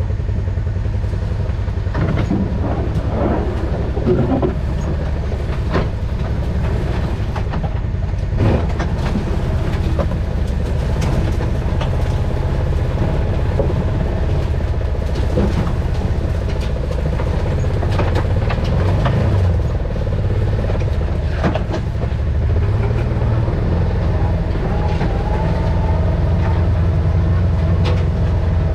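Side-by-side utility vehicle's engine running steadily as it drives over a rough trail, with scattered knocks and rattles from the machine.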